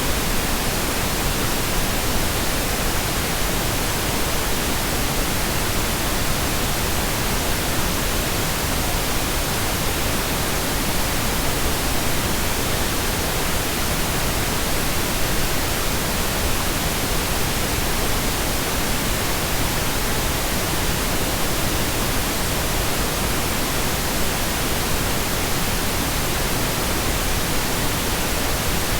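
Steady synthetic pink noise: an even, unchanging hiss spread across the whole range of pitch, with no breaks or events.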